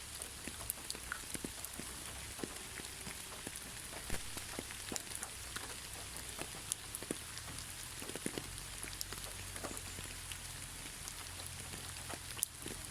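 Gentle, steady rain with no thunder: an even hiss full of scattered, irregular drop taps on a surface, one sharper drop about four seconds in and another near the end.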